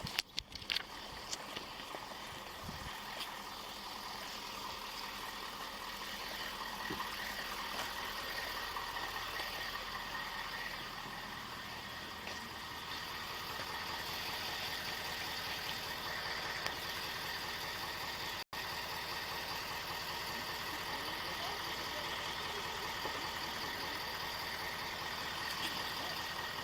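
Steady hum of an idling vehicle engine with fan noise, as picked up by a body-worn camera microphone. The audio drops out for an instant about two-thirds of the way through.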